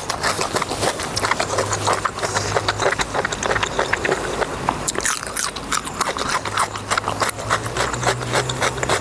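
Close-miked eating sounds: a person biting and chewing pork intestine in a wet spicy sauce, with dense, irregular wet clicks and mouth smacks.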